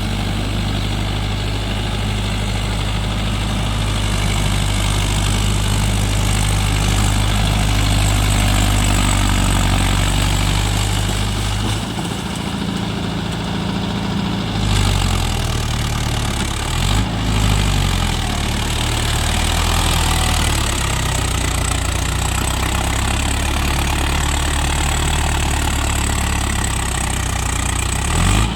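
Mahindra Yuvo Tech+ 585 DI tractor's diesel engine running steadily. About twelve seconds in its speed changes, and a little later it rises and falls in pitch a few times before settling again.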